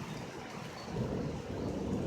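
Thunder rumbling low in an ongoing thunderstorm, with rain falling; the rumble swells about halfway through.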